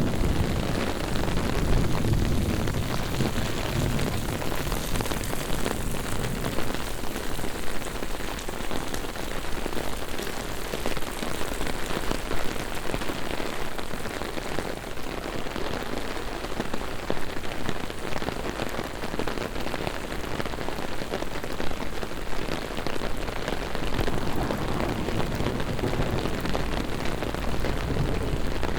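Heavy rain falling steadily, a dense even hiss made of countless small drop hits. A low rumble fades out over the first few seconds.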